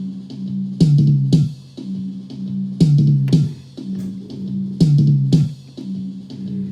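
Band music playing back: a bass and guitar groove with drum kit hits, a pattern that repeats about every two seconds, like a looped section.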